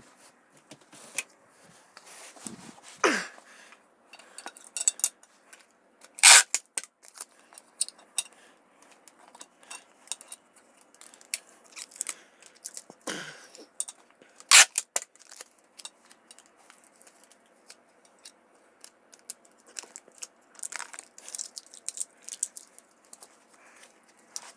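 Scattered clicks, clinks and knocks of hard metal and plastic parts being handled while a television is taken apart for its boards, with two sharper knocks about six and fourteen seconds in.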